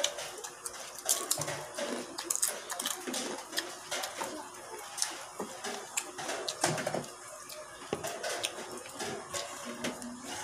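Wet, close-up chewing and lip-smacking from a man eating soft pork intestines and rice by hand, with many irregular mouth clicks.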